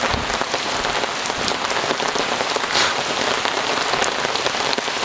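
Heavy rain falling steadily, with many close raindrop hits heard as short sharp ticks over the continuous hiss of the downpour.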